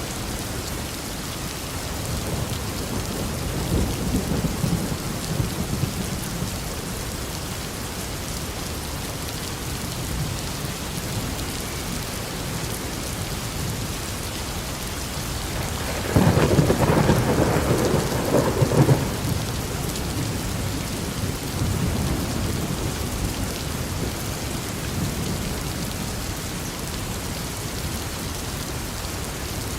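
Steady heavy rain during a thunderstorm, with low rolls of thunder a few seconds in and a loud, sudden thunderclap about halfway through that rumbles on for about three seconds.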